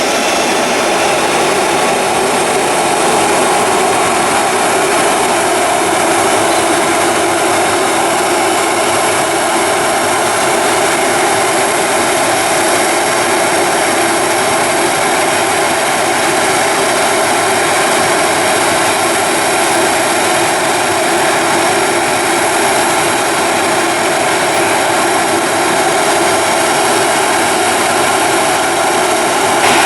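Airliner engines running at a steady level: a continuous whine with several constant tones over a broad rushing noise, unchanging throughout.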